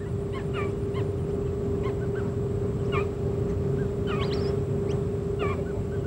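Scattered short bird chirps, a few each second, many sliding up or down in pitch, over a steady low hum.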